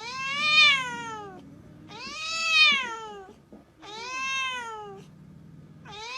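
Cat meowing: three long, drawn-out meows about two seconds apart, each rising then falling in pitch, and a fourth beginning near the end.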